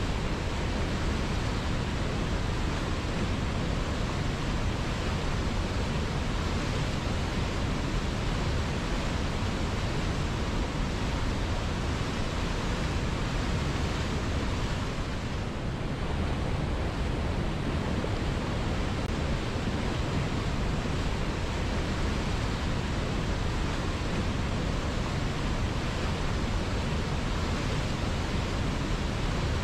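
Steady rush of flowing river water, an even wash of noise with a brief slight dip about halfway through.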